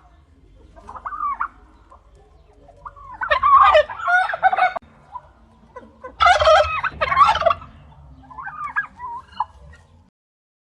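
Domestic turkey gobbling. A soft call comes first, then two loud gobbles about three and six seconds in, then a softer call near the end.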